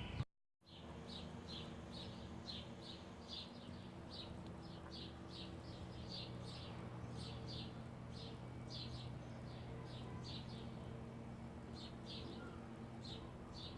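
A bird chirping over and over, short high chirps about one or two a second, over a faint steady low hum.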